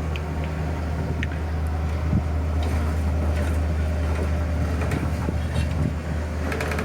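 Boat engine running steadily at a constant speed, a low even drone.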